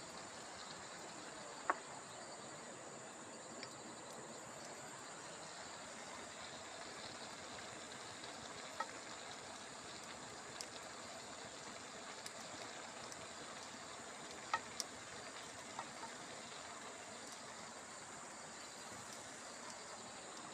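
Steady high-pitched drone of insects, with a handful of short sharp clicks scattered through it, two close together about two-thirds of the way in.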